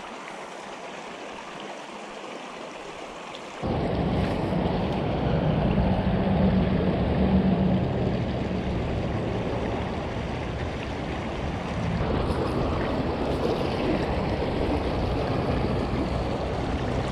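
Small mountain creek running steadily over shallows. The sound steps up suddenly and becomes louder and fuller about three and a half seconds in.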